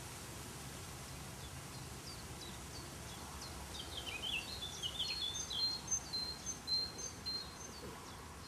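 A small songbird singing over steady background noise: about three and a half seconds in, a quick run of high downward-slurred chirps, then several short, level whistled notes that stop about a second before the end.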